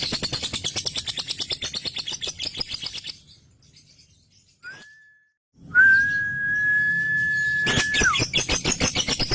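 Male lovebird's long, rapid chattering 'ngekek' song, broken by a gap a little after three seconds in. A short whistle note comes in the gap, then a steady whistled tone held about two seconds before it drops off, while the fast chatter resumes.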